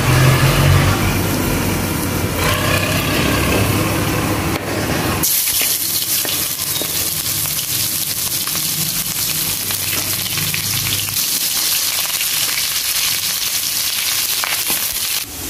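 Sliced onions and garlic going into hot oil with bay leaves and spices in a wok: a sizzling hiss starts suddenly about five seconds in and keeps up as they fry and are stirred. A low steady hum runs under the first part.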